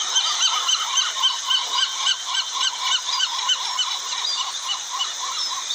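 A colony of pelicans calling, many short, arched honking calls overlapping in quick succession.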